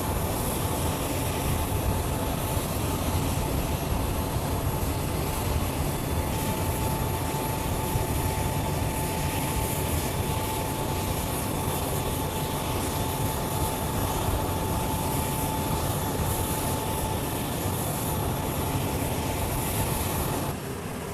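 Jet transport aircraft's turbofan engines running: a steady, dense noise with a thin, steady whine over it, dropping in level just before the end.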